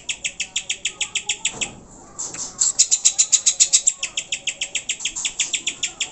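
Greater green leafbird (cucak hijau) calling in a rapid run of sharp, evenly repeated high notes, about eight a second, breaking off briefly about two seconds in and then carrying on.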